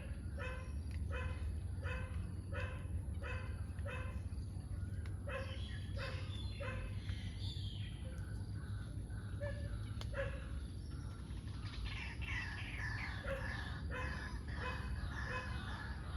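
Woodland ambience at dusk. A short call repeats about twice a second, then grows sparse, and a busy chorus of bird chirps sets in about three quarters of the way through. Beneath it run a steady high whine and a low rumble.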